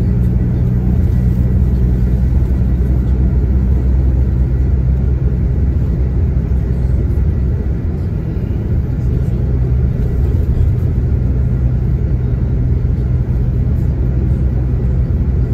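Diesel coach engine running under way, heard from inside the passenger cabin, with steady road rumble. The engine note eases off about halfway through, then picks up again.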